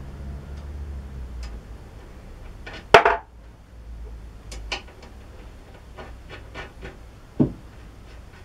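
Metal lathe parts and tools being handled during reassembly: a sharp knock with a brief ring about three seconds in, a duller knock near the end, and small clicks and taps between them.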